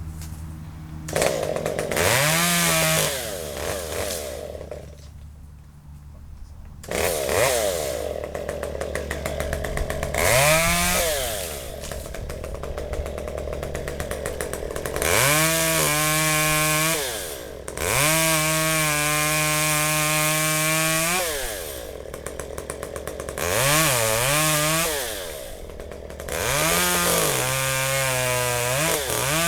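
Two-stroke chainsaw idling and revving up in about seven bursts, each rising in pitch, holding, then dropping back to idle, as it works on a dead buckeye tree.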